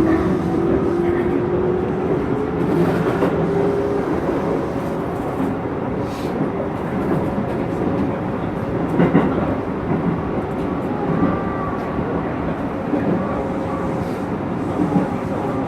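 Hokuso 9100-series electric train running, heard from on board: a motor whine rises in pitch over the first few seconds as it accelerates, then steady running noise with occasional clicks from the rails.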